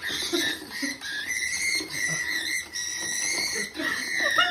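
A pet bird screeching in long, shrill, wavering calls, with shorter calls in between. It is agitated and freaking out over an object in a box.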